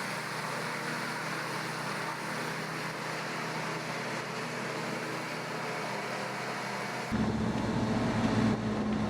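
Wood chipper running with a steady, even mechanical noise. About seven seconds in, the sound cuts abruptly to a louder, deeper engine drone with a low hum.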